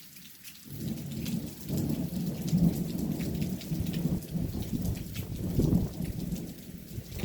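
Rain falling steadily with drops pattering. About a second in, a long low rumble of thunder rolls in, swells and wavers for several seconds, then eases near the end.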